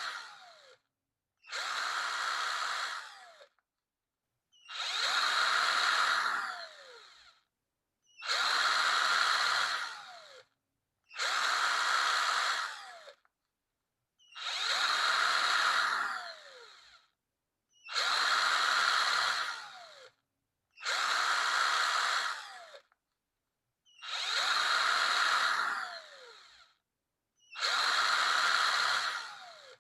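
Power drill run in short bursts of about two seconds, about ten times with brief silences between, each burst ending in a falling whine as the motor spins down after the trigger is released.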